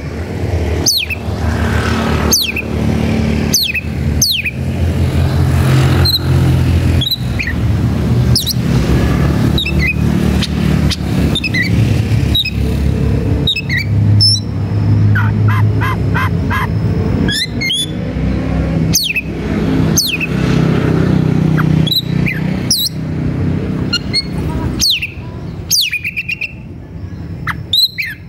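Oriental magpie-robin (kacer) singing loudly and without a break: a rapid string of sharp whistled notes and quick downward-sweeping calls. This is the agitated, aggressive song of a male looking for a rival to fight, the song used to provoke other kacer into answering. A steady low rumble runs underneath.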